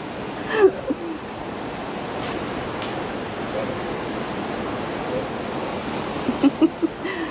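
A steady rushing noise, with a few short knocks near the end.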